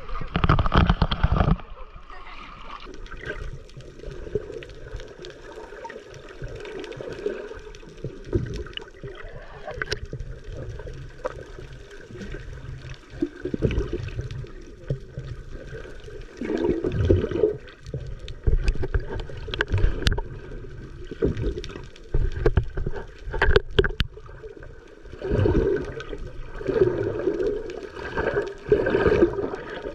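Sea water sloshing and gurgling in uneven surges, with splashes; louder surges at the start and near the end.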